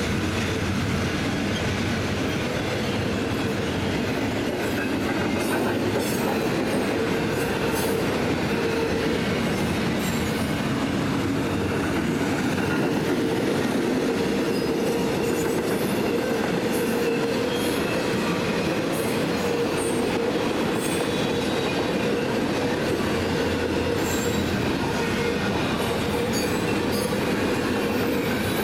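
Double-stack intermodal freight train rolling past: a steady rumble of steel wheels on rail, with a constant tone running through it and scattered sharp clicks.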